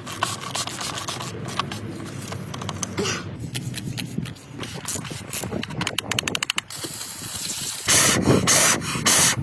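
Clicking, rubbing and scraping of tools and parts during oil-filter work, with a quick run of even clicks about six seconds in and a few loud hissing bursts near the end.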